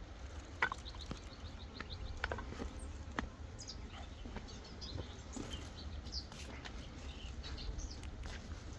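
Small birds chirping here and there over a steady low rumble, with a few light knocks in the first few seconds.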